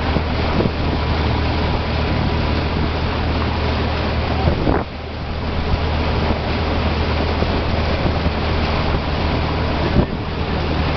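A boat's engine running with a steady low hum, under wind on the microphone and the rush of sea water past the hull.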